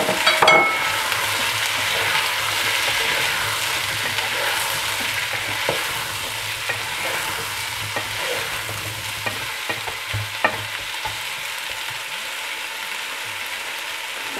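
Pumpkin cubes sizzling in hot oil in a pot with carrot, onion and chilli, while a wooden spoon stirs and turns them, with a few scraping knocks against the pot. The sizzle is strongest in the first few seconds and eases gradually as the cold pumpkin takes the heat out of the oil.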